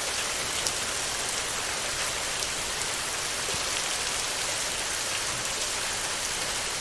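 Steady heavy rain falling on a tin roof: a dense, even hiss scattered with faint ticks of individual drops.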